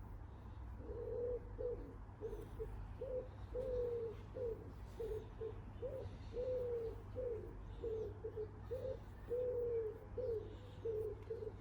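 A pigeon cooing in repeated phrases of several notes, starting about a second in, over a steady low hum.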